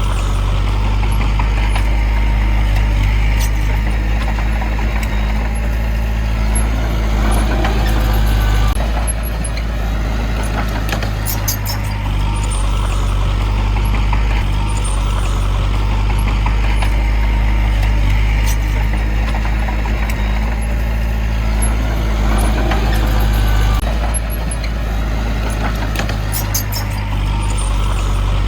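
A heavy diesel engine of earthmoving machinery runs steadily under load, its note dipping briefly twice. Scattered high metallic clicks sound over it.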